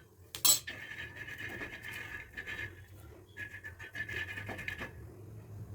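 A spatula scraping and stirring in a dry pan, with a sharp click about half a second in.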